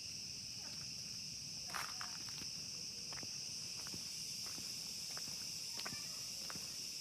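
Tropical rainforest insects, crickets or cicadas, keeping up a steady high-pitched drone, with scattered faint ticks and one brief sharper sound about two seconds in.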